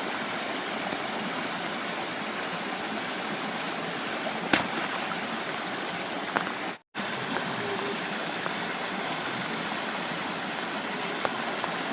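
Steady rush of stream water, with one sharp knock about a third of the way in. The sound cuts out completely for a moment a little past halfway.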